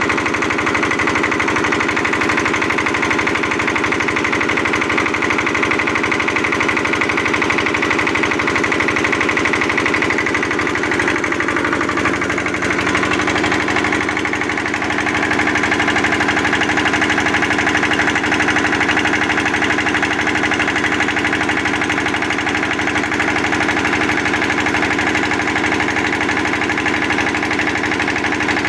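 Field Marshal diesel engine driving a 7.5 kVA AC generator, running steadily with rapid, even firing beats. Its note shifts slightly about twelve seconds in.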